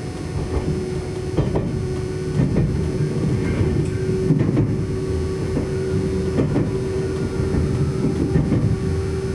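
Electric train running along the track: a steady rumble of wheels on rail with a steady hum, and sharp knocks from the rail joints at uneven spacing, roughly once a second.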